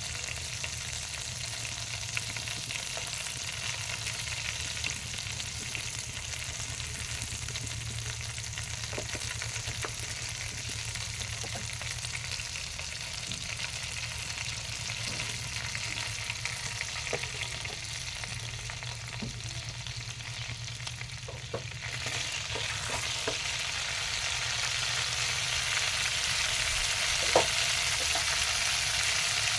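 Food frying and sizzling in a pan for a chicken curry, with scattered light clicks of a utensil being stirred against the pan. The sizzle grows louder about 22 seconds in.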